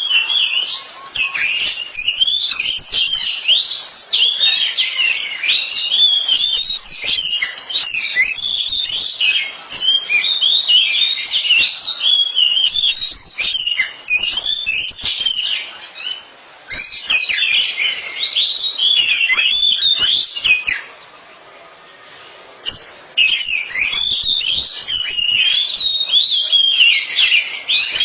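Oriental magpie-robins singing against each other: a fast, varied stream of whistled notes that rise and fall, almost without pause. The song breaks off for about two seconds some three quarters of the way in.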